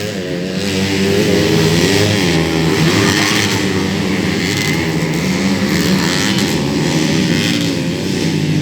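Several 130cc underbone motorcycles racing, their engines revving up and down in overlapping, wavering pitches.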